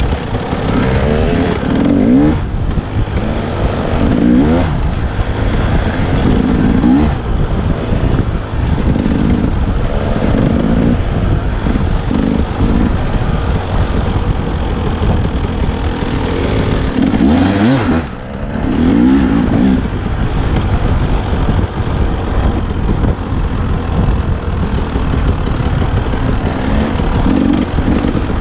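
Dirt bike engine revving up and down over and over as it is ridden, the pitch rising and falling every second or two, with a brief dip in the engine sound about two-thirds of the way through.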